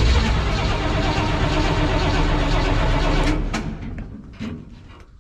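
Freshly built V8 engine being started with ether. It turns over and runs loudly for about three seconds, then fades out and dies about four seconds in.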